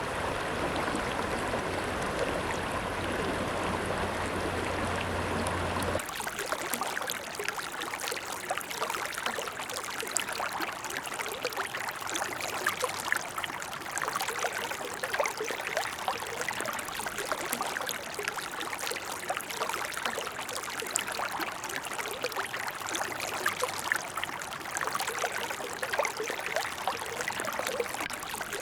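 Mountain river flowing over rocks, a steady rushing of water. About six seconds in the sound changes abruptly to a brighter, splashier stretch of many small gurgles and splashes.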